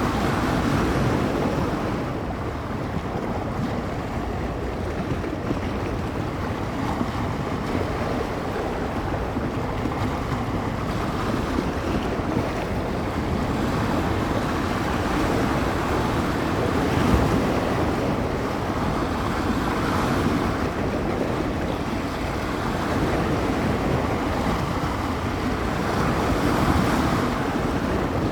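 Small bay waves washing and breaking on the shore, the surges swelling and fading every few seconds, with strong wind buffeting the microphone as a constant low rumble.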